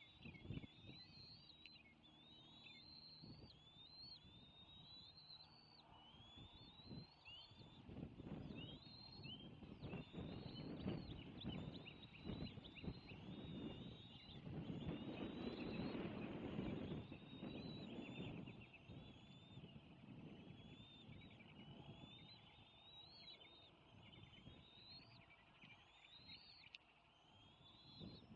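Bald eagles giving a steady run of short, high-pitched chirping calls, faint, over a low rumble of wind or movement at the nest that swells in the middle.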